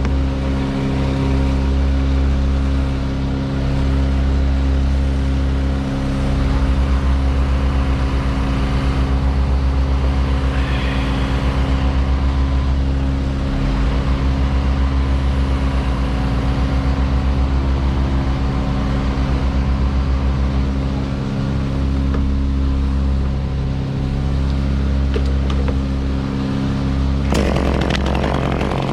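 A heavy engine running steadily at a constant speed. Near the end a chainsaw revs up sharply.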